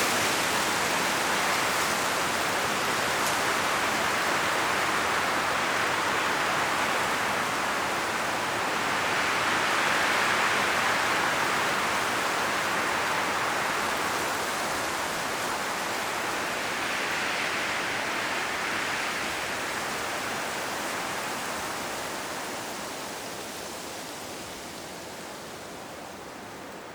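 Wind blowing through autumn forest trees, the leaves rustling in a steady rush that swells in gusts about ten seconds in and again a little later, then dies down toward the end.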